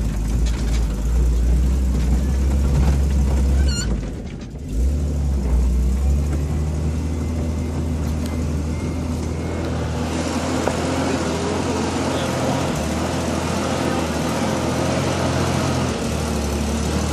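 A vehicle's engine running steadily as it climbs a steep rocky dirt track, heard from inside the cab. The engine sound dips briefly about four seconds in, and a rougher hiss of tyres on gravel and stones grows from about ten seconds in.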